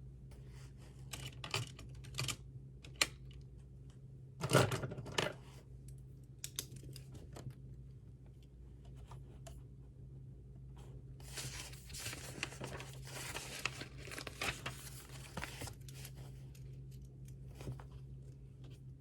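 Study-desk sounds: a few scattered clicks and taps, a short louder rustle of paper about four and a half seconds in, then several seconds of dense scratching and tapping from about eleven to sixteen seconds, over a low steady hum.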